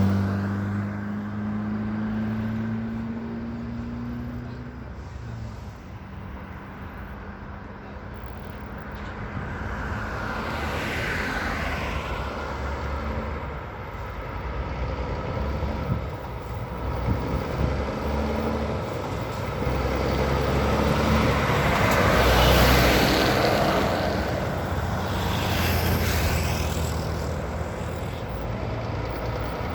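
Heavy diesel truck running, its engine note rising slowly at first, then road traffic passing with several vehicles going by in swells of tyre and engine noise. The loudest pass-by comes about three quarters of the way through.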